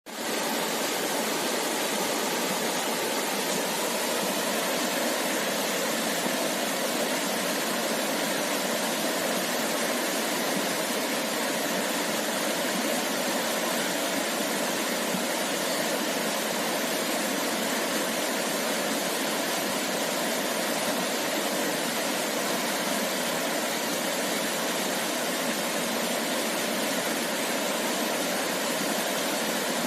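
Steady rushing of a flowing river, an even hiss with no breaks, fading in at the very start.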